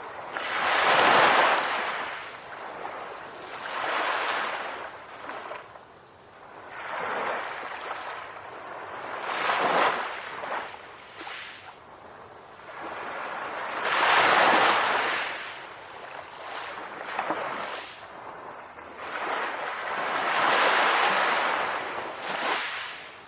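Ocean waves washing onto a beach: a hiss of surf that swells and fades about every three to four seconds, with the loudest surges about a second in and again near the middle.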